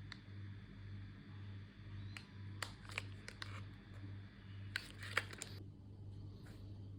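Hands handling packaging: a few scattered sharp clicks and crinkles, the loudest cluster just after the middle. A low hum that swells and fades about twice a second runs underneath.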